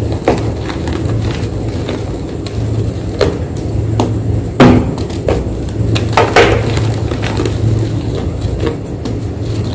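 Fresh white gym chalk crunching and crumbling in a series of separate, irregular crunches, the loudest a little under five seconds in.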